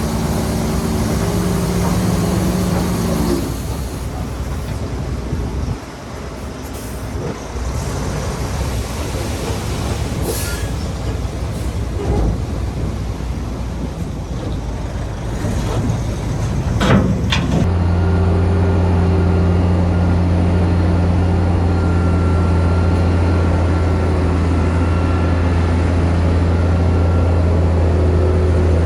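Heavy diesel construction machinery running, with a few sharp clanks through the middle. About two-thirds of the way through, the sound changes abruptly to a steady low engine drone.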